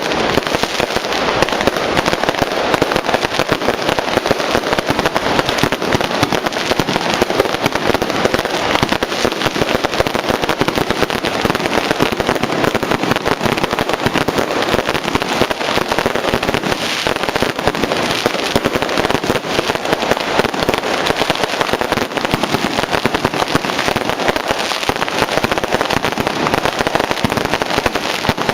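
Firecrackers going off in a dense, unbroken crackle of rapid bangs, loud and without a pause.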